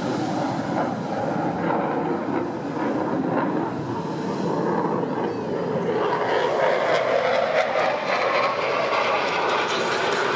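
USAF F-16C fighter jet's engine noise during a display, steady at first and growing louder and brighter about halfway through.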